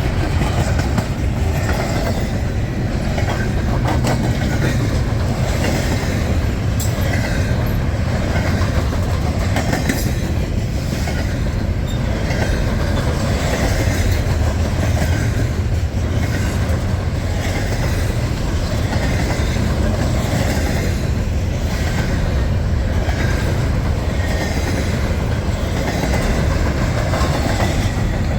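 Freight train cars rolling past at close range: a steady heavy rumble with wheels clacking over the rail joints in a repeating rhythm as each car goes by.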